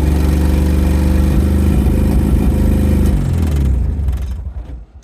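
1987 Nissan 200SX S12 engine running steadily at idle, then shutting off about three seconds in and running down to a stop over about a second and a half.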